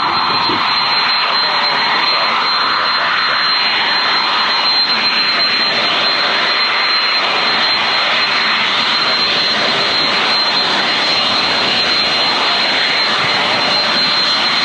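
Jet airliner engines running steadily: loud even engine noise with a thin, steady high whine over it.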